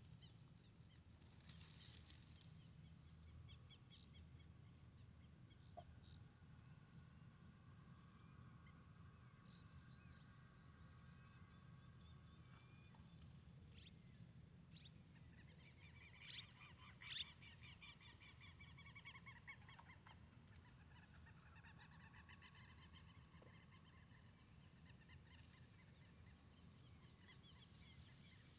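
Near silence: faint open-air ambience with distant birds calling, including a run of rapid chattering calls past the middle, two of them a little louder.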